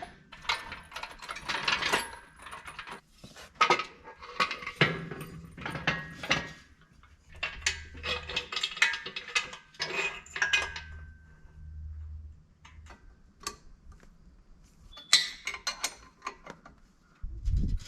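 Steel shop equipment being handled: irregular metallic clanks, rattles and scrapes in uneven clusters, some with a brief ring, as an engine stand is worked into position under an engine hung from a cherry picker.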